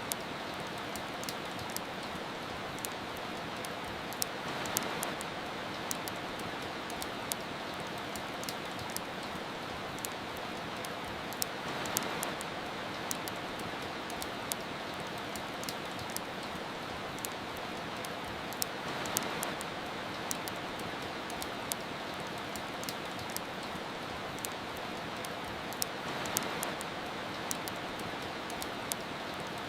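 Steady rain with the frequent sharp pops and crackles of a wood fire. The rain swells gently about every seven seconds.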